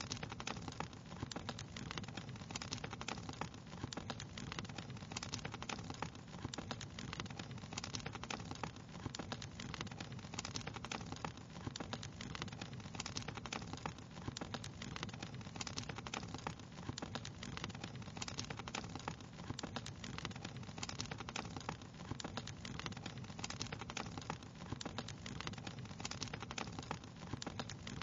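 Wood fire crackling steadily: a dense run of small pops and snaps over a soft low rumble of flames.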